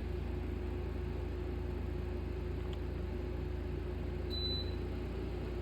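Sharp air conditioner running in cooling mode with the compressor on and the fan slowed, a steady hum that runs pretty quiet. A short high beep sounds about four seconds in.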